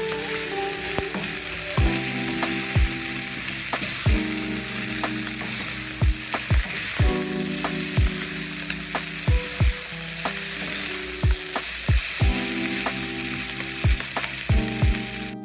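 Fried rice sizzling in a nonstick frying pan while it is stirred and tossed with two wooden spatulas, with a steady hiss and irregular knocks of the spatulas against the pan.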